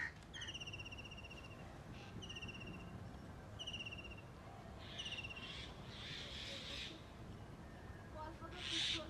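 A bird calling four times: high, buzzy notes that fall slightly in pitch, the first about a second long and the rest shorter, coming about every second and a half. Short bursts of hiss come midway and near the end.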